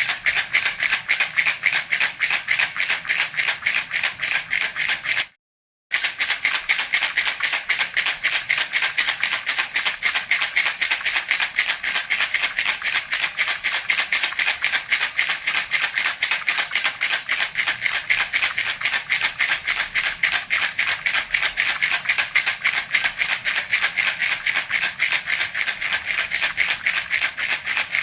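Baby rattle (jhunjhuna) shaken steadily in a fast, even rhythm of several shakes a second, a continuous bright rattling. It cuts out completely for about half a second, about five seconds in.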